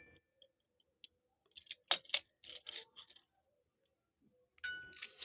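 A cluster of sharp clicks and short scratchy rattles about two to three seconds in, then a bright chime tone near the end.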